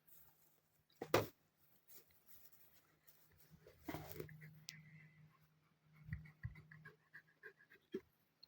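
A dog panting in quick short breaths, with a single sharp thump about a second in.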